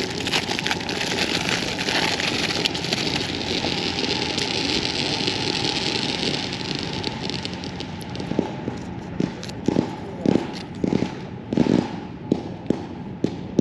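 Consumer fireworks going off: a steady hissing spray with fine crackle for about eight seconds, then a run of separate sharp pops and crackles at irregular intervals.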